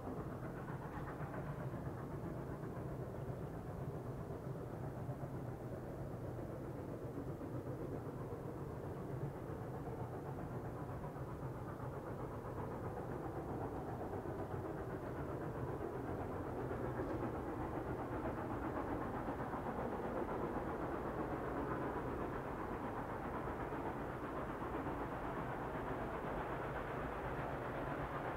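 Distant train rumbling steadily, with a low hum under it, growing a little louder about two-thirds of the way through.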